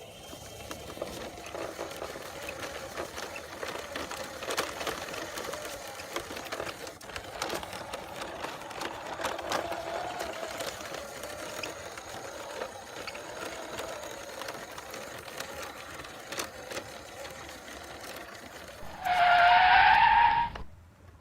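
Plastic toy racing car's wheels rolling and scraping over the ground as it is pushed by hand, an uneven rattle with scattered clicks. Near the end there is a louder, short rising tone, then the sound cuts off.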